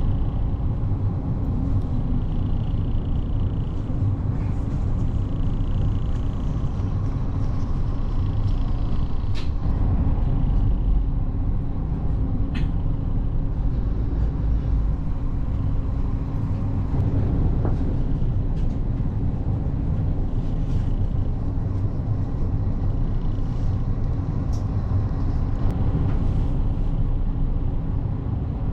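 Diesel railcar's engine idling, a steady low rumble with a constant hum, heard from inside the carriage while the train stands waiting for a crossing train; a couple of faint clicks.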